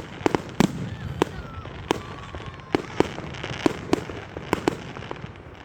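Fireworks display: a rapid, irregular run of sharp bangs and pops, about two to three a second.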